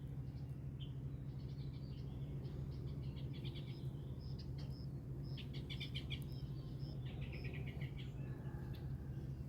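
Small birds chirping in short, rapidly repeated trills over a steady low rumble.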